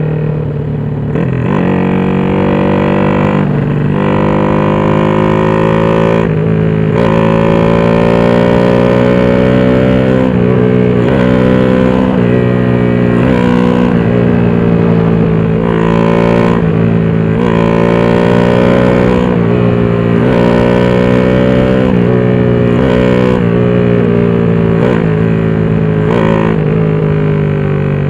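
Honda XRM Fi motorcycle's single-cylinder four-stroke engine, bored out to 62 mm, running hard at speed. Its pitch climbs slowly, then drops back sharply, over and over, with a low wind rumble on the microphone.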